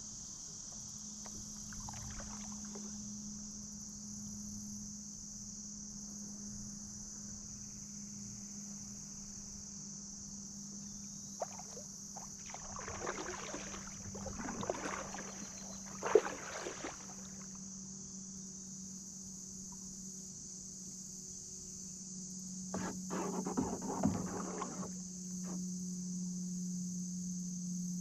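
Kayak paddle strokes dipping and splashing in river water in two spells, one around the middle with a sharp knock and one near the end, over a steady high-pitched drone of insects.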